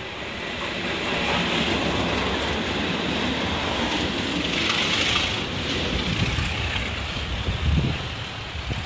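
Flask train hauled by British Rail Class 37 diesel locomotives passing: a loud rumble of engine and wheel noise that swells over the first second or so, then holds steady, with a few low thumps near the end.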